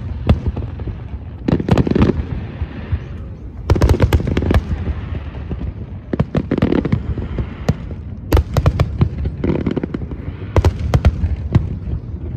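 Fireworks show: clusters of sharp cracks and bangs every second or two over a steady low rumble of booming shells.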